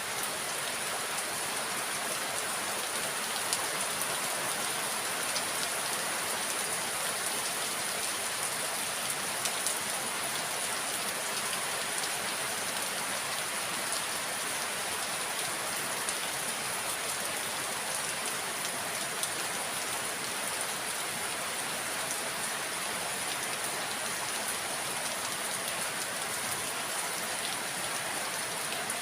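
Steady rain falling, an even hiss with scattered ticks of drops hitting surfaces.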